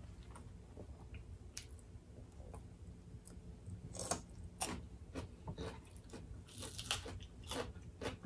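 Faint close-miked eating sounds: people chewing and biting food, with small wet mouth clicks and a series of sharper crunches from about four seconds in.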